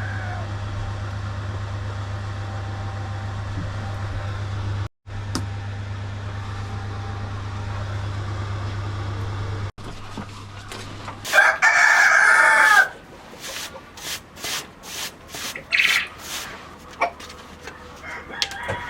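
Rooster crowing once, loudly, about 11 seconds in, after a stretch of steady low hum. Short knocks and clicks and a few brief chicken calls follow.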